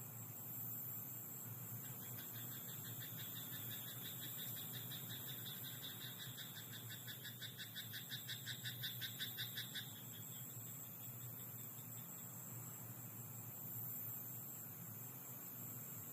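Frog croaking in a rice paddy at night: a fast run of pulsed croaks, several a second, starts about two seconds in, grows louder and stops abruptly near the ten-second mark. Under it runs a steady night background with a thin high-pitched whine.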